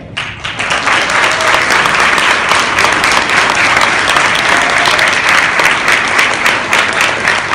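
Audience applauding at the end of a performance, the clapping rising quickly after a brief pause and then holding dense and steady.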